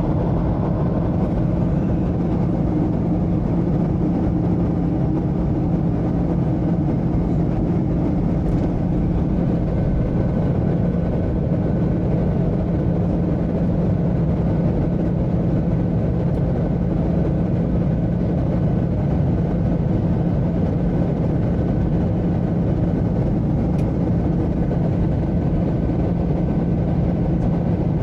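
Steady cabin noise inside a Boeing 737-800 on approach: the drone of its CFM56 turbofan engines mixed with the rush of airflow over the fuselage, with a steady low hum and, from about ten seconds in, a faint high whine.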